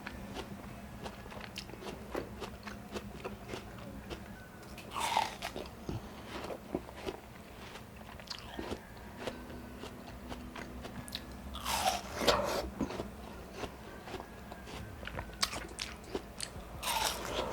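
Close-miked biting and chewing of juicy watermelon: three loud wet bites, about five, twelve and seventeen seconds in, with crunchy chewing clicks between them.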